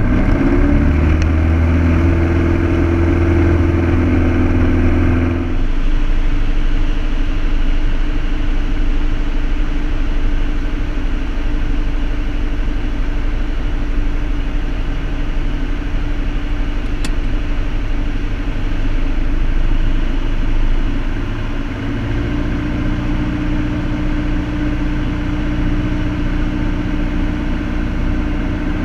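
Piper Cherokee's piston engine and propeller droning steadily in flight. Its tone changes about five seconds in and again a little past twenty seconds.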